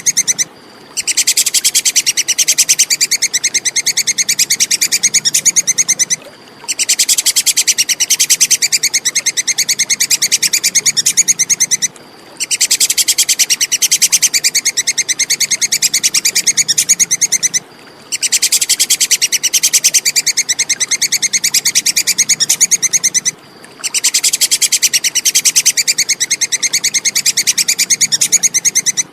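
Tree squirrel's ('tupai kekes') rapid, high chattering call, given in bouts of about five seconds separated by short breaks, repeating in the same pattern as a looped training track for songbirds.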